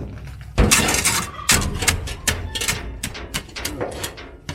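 A heavy thump about half a second in, then a rapid run of knocks, clicks and rattles, several a second.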